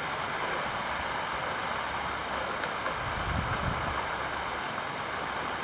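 Heavy rain pouring down in a steady downpour, with a brief low rumble about three seconds in.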